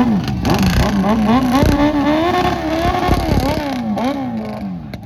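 Motorcycle engine running, its revs climbing slowly and then dropping away near the end.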